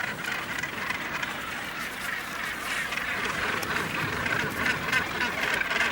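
Northern gannets calling at a crowded breeding colony, a dense continuous din of many overlapping calls.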